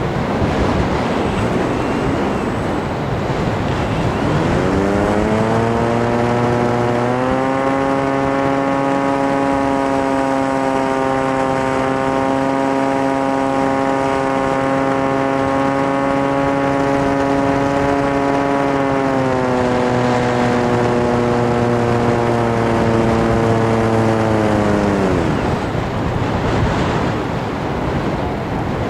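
Wind rushing over the microphone of an FPV aircraft, with the aircraft's motor and propeller hum rising in pitch about four seconds in as the throttle opens, holding steady with small steps in pitch, then dropping away as the throttle comes off near the end.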